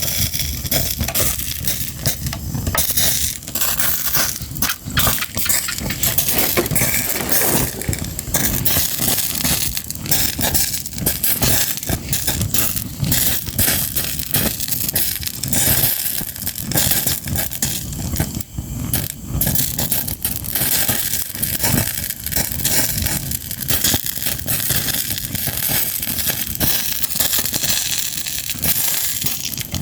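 Fire crackling and popping continuously: a dense, unbroken run of sharp snaps and clicks over a low rumble.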